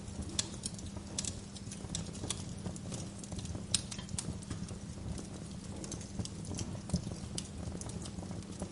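Wood fire crackling in a fireplace: irregular sharp pops and snaps, several a second and uneven in strength, over a steady low rumble.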